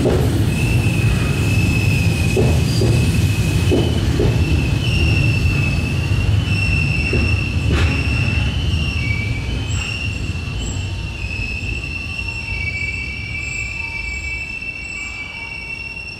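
Tobu Skytree Line electric commuter train moving along the platform with a low rumble, a steady high-pitched squeal and a few wheel clacks over rail joints in the first few seconds. The rumble slowly dies down as the train moves off or slows.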